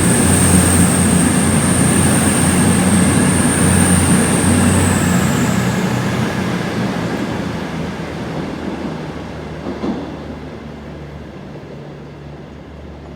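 Passenger train running past and away, loud at first and then dying away steadily. A high steady whine holds for the first few seconds, then drops in pitch and fades about five seconds in, over a low hum.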